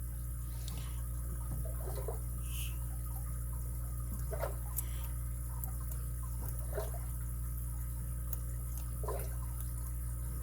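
Faint, scattered ticks and scrapes of a lock pick and tension wrench working the pins inside a padlock during single-pin picking, over a steady background hum.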